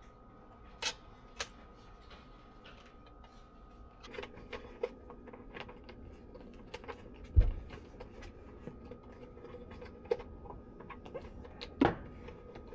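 Hands handling small objects: scattered light clicks and taps, busier from about four seconds in, with a heavy knock about seven seconds in and another near the end.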